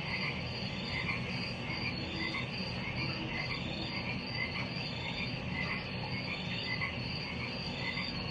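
Frogs calling in short repeated chirps, about one or two a second, over a steady high insect trill and a low even background hum.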